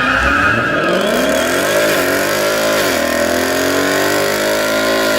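Car engine revving hard at high revs over a loud hiss, its pitch sagging about three seconds in and climbing again, then cutting off at the end.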